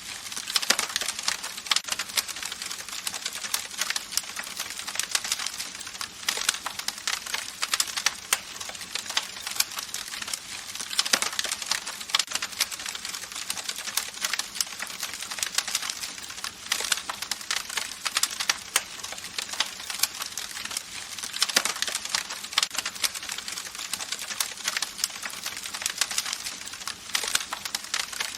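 Campfire crackling: a dense, steady run of small pops and snaps over a soft hiss, with a few louder snaps now and then.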